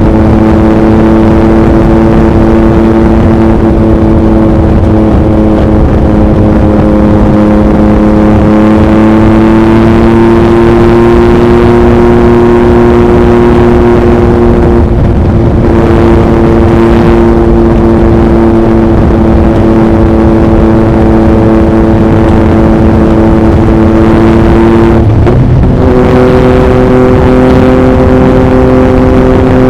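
2021 Yamaha MT-09's 890 cc inline-three running through an Akrapovic racing exhaust at a steady highway cruise, with heavy wind rushing over the microphone. The engine note holds steady except for two brief breaks, about halfway through and near the end, and after the second one it settles at a slightly higher pitch.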